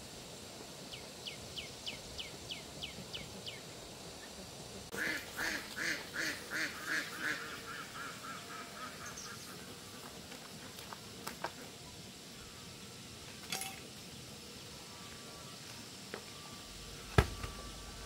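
Birds calling: a string of thin, falling chirps, then a louder run of about seven evenly spaced calls that trail off into quieter ones. A single sharp knock near the end.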